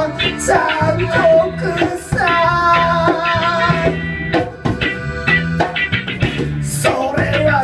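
Live band music with drums, a repeating bass line and a sustained melodic lead line.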